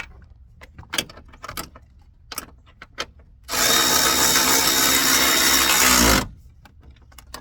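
A few sharp clicks and knocks of tools, then a power drill running at speed for almost three seconds with a steady high whine, winding down in pitch as it stops.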